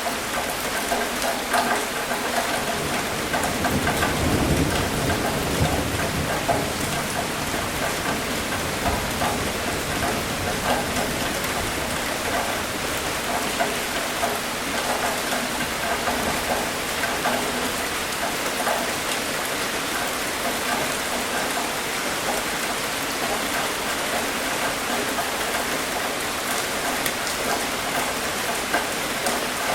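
Steady rain with many separate drop hits, and a low rumble of thunder about four seconds in that lasts a couple of seconds.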